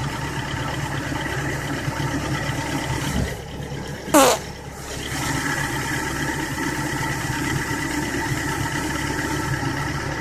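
Chevrolet engine idling steadily shortly after a cold start in near-freezing weather. About four seconds in, a brief, loud squeal falls sharply in pitch before the steady idle resumes.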